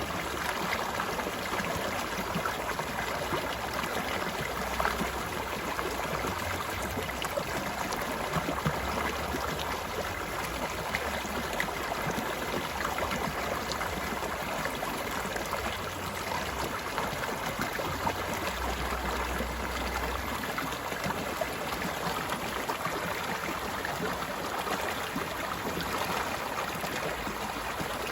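A mountain stream running steadily over rocks, a continuous rushing and babbling of water with small splashes and gurgles.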